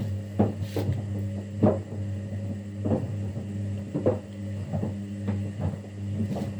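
Kunft washing machine running a wash cycle: a steady motor hum, with irregular thuds and swishes about twice a second as laundry and water tumble in the drum.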